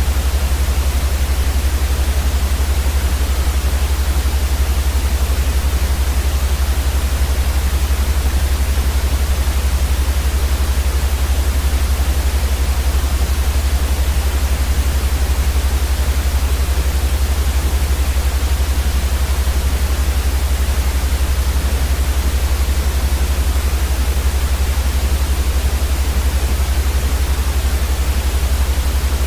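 Steady white noise played for baby sleep: an even, unchanging hiss across the whole range with a strong low rumble beneath it.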